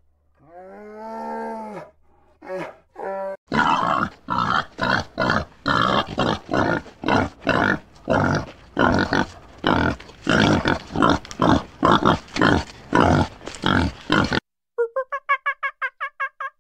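Animal calls: one drawn-out call that rises and then falls in pitch, two short calls, then a long run of loud rhythmic grunts at about two a second that stops abruptly. Near the end a fast series of short, evenly spaced pitched calls begins.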